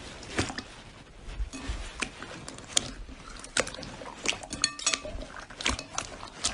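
Slime being squished and worked, giving irregular wet pops and sticky clicks.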